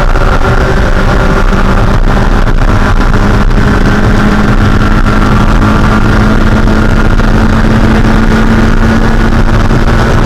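Spec Miata's 1.6-liter four-cylinder engine running loud and steady under racing load, holding an almost constant pitch.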